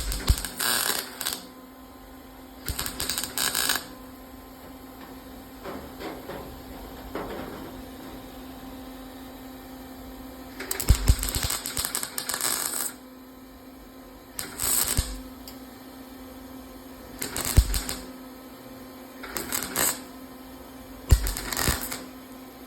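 An early Century 110-volt wire-feed welder crackling in about seven short bursts, a second or two each with pauses between, as it fills old trim holes in quarter-panel sheet steel against an aluminium backing plate. A steady low hum runs underneath.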